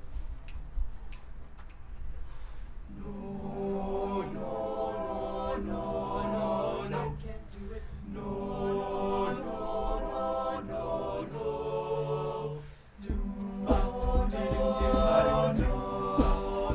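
Male a cappella group singing held, wordless chords, starting about three seconds in, with brief breaks near the middle and again near the end. From there sharp percussive clicks from a beatboxer join the chords.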